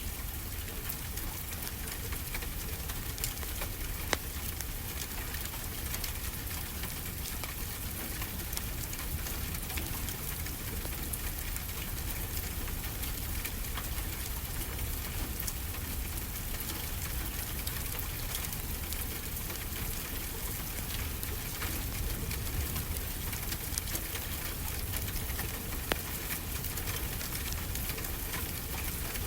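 Steady rain hiss with a low rumble underneath, and scattered sharp crackles of a wood fire, two louder ones about four seconds in and near the end.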